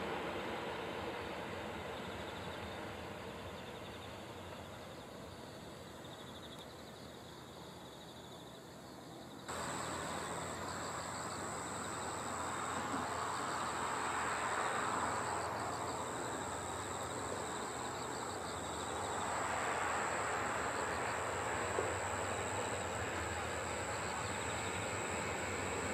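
Distant Shinkansen high-speed train running along an elevated viaduct, a broad rushing noise that fades away over the first nine seconds. About nine seconds in the sound changes abruptly: a steady high insect shrilling, with another distant train rush swelling and easing off.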